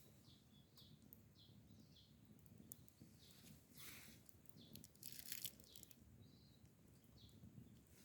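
Faint outdoor ambience with small birds chirping in short repeated calls, and a couple of brief soft rustles about four and five seconds in.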